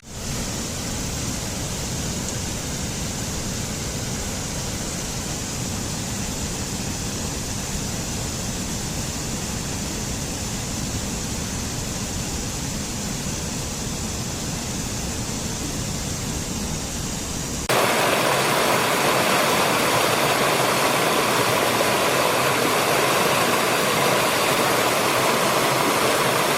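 Steady rushing of flowing water with a deep rumble. About two-thirds of the way through it cuts suddenly to a louder, brighter rush of water from a different recording.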